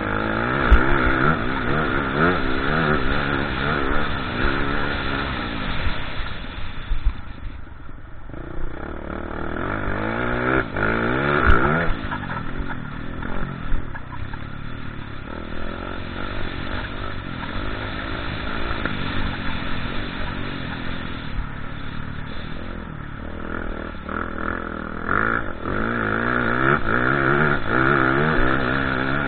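Motocross bike engine revving hard and easing off again and again, its pitch climbing and dropping through the gears, with a few sharp knocks.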